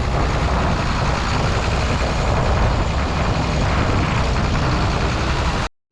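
John Deere 4840 tractor's diesel engine running steadily as the tractor drives over loose fill dirt to pack it down. The sound cuts off suddenly near the end.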